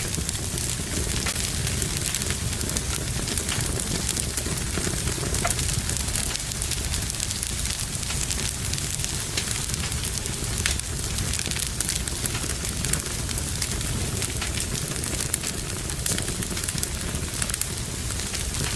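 Fire burning in a fireplace, crackling steadily with many small sharp pops over a low rumble of flames.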